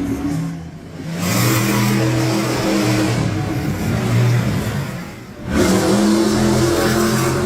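Monster truck engine revving hard, its pitch rising and falling. It drops away sharply twice, under a second in and again about five seconds in, each time picking back up.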